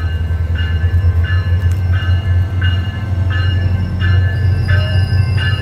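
SunRail commuter train standing at the platform: its diesel engine runs with a loud, steady low rumble while a bell rings evenly, about three strokes every two seconds.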